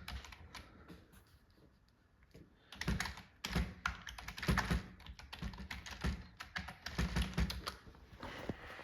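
Typing on a computer keyboard: irregular runs of key clicks that start after a quiet gap of about two seconds.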